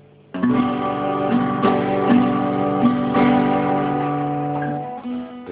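Guitar strummed on a G major chord: struck about a third of a second in, then strummed several more times while it rings, dying away near the end.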